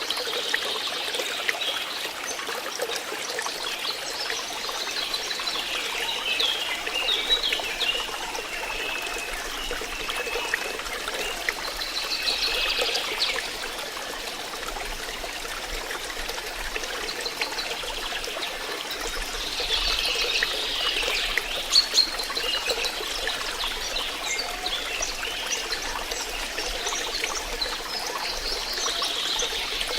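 Water trickling and flowing steadily, with a continuous splashing, babbling sound.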